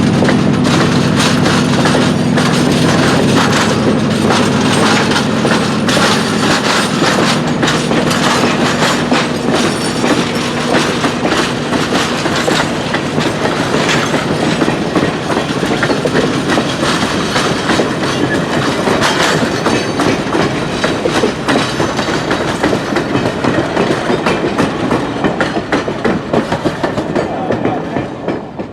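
Fairbanks-Morse H-12-44 diesel locomotive running with a train, its steady engine hum giving way after several seconds to rattling wheel clatter and clickety-clack over the rail joints.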